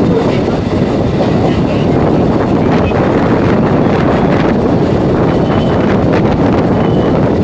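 EMU electric local train running at speed, a steady loud rumble of wheels on the rails with wind buffeting the microphone.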